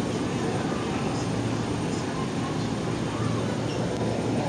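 Electric commuter train running at the station, a steady rumble of wheels on the rails.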